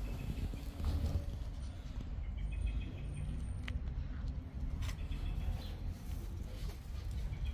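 Outdoor garden ambience: a steady low rumble with faint, scattered bird chirps and a few light clicks.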